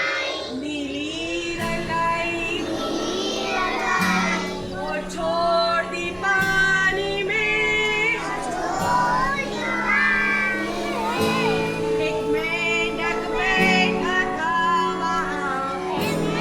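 A song for children with singing voices over a simple backing track with held bass notes.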